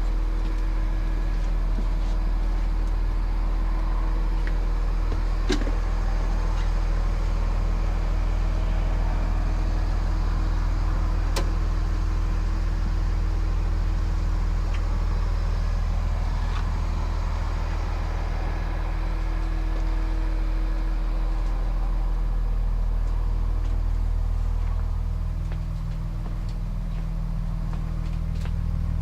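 School bus's Cummins ISC 8.3-litre turbo diesel idling steadily, with a few sharp clicks.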